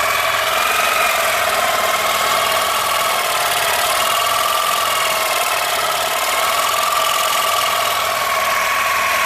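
Power tool cutting through a seized steel bolt on a truck's front axle: a steady, loud motor whine with a high hiss, its pitch dipping and recovering slightly as the cut loads it.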